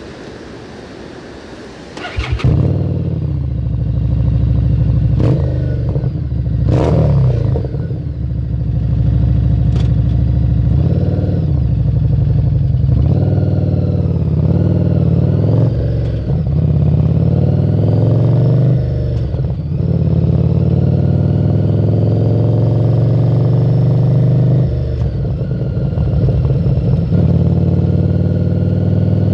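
Harley-Davidson Street 750's liquid-cooled V-twin, fitted with a Screamin' Eagle exhaust, coming in loud about two seconds in after a short stretch of wind-like hiss. It then runs under riding load, its pitch climbing and dropping several times as it accelerates, eases off and shifts.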